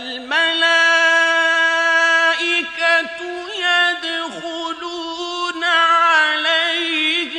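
A man reciting the Qur'an in melodic tajweed style, starting a new phrase right after a pause. He holds long, steady notes broken by ornamental turns in pitch, with a quavering passage near the end.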